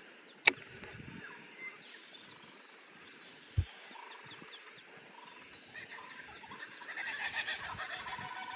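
Birds calling from the riverbank, building near the end into a loud, rapid chattering chorus. A sharp click about half a second in and a dull low knock about three and a half seconds in.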